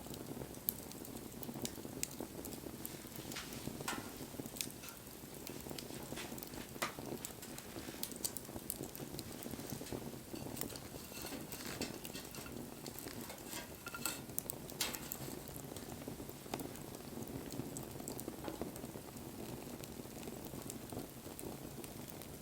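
Wood bonfire burning, a steady low rush of flame with frequent irregular crackles and pops.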